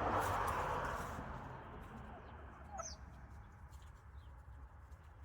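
Wild turkeys clucking softly while they forage, with one brief upward-sweeping call about three seconds in. A noisy hiss fades away over the first second and a half.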